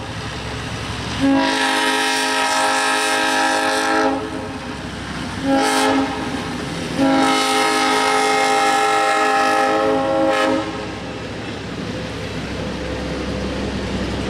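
Train horn sounding three blasts: long, short, long, the last the longest, each a multi-note chord. Under it runs the steady rumble of the moving train.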